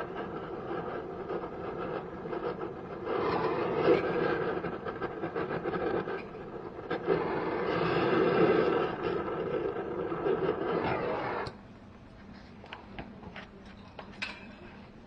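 A machine running steadily with a coarse, buzzing noise, cutting off suddenly about eleven and a half seconds in; a few faint clicks follow.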